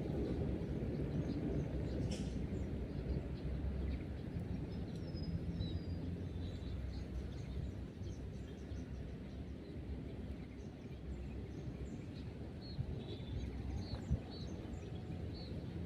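Outdoor ambience: a steady low rumble, with small birds giving short high chirps now and then.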